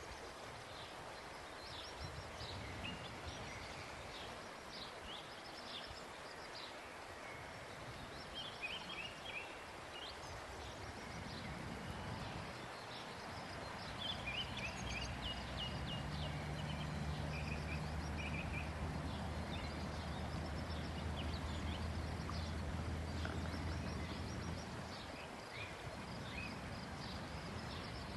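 Small birds chirping in short repeated phrases over a quiet outdoor background. A low steady hum comes in a little before the middle and fades out a few seconds before the end.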